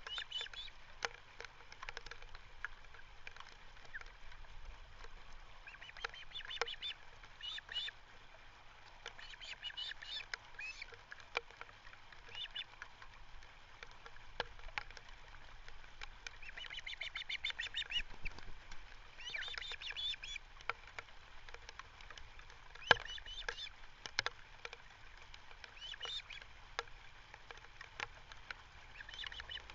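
Ospreys calling at the nest: short series of high chirping calls repeated every few seconds, with scattered sharp clicks and one louder knock about three-quarters of the way through.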